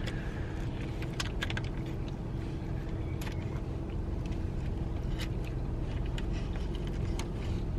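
Steady low rumble of a car heard from inside the cabin, with a faint steady hum and a few light clicks.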